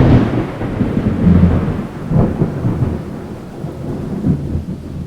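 A long roll of thunder, loudest at the start and slowly fading, with fresh swells of rumble about two seconds and four seconds in.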